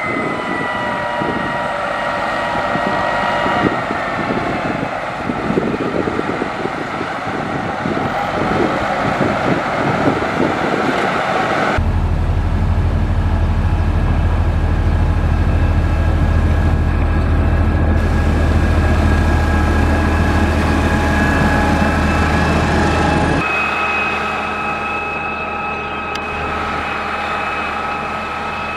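Heavy construction machine's diesel engine running steadily, with a whine over the engine note. The sound changes abruptly twice: a heavy low drone comes in about 12 seconds in, and it drops away again about 23 seconds in.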